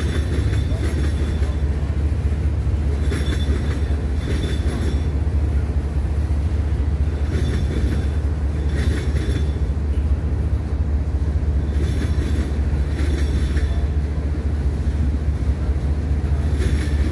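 Railroad cars rolling past on the track with a steady low rumble. Short bursts of higher-pitched wheel noise come in pairs about every four to five seconds as the cars' wheel sets pass.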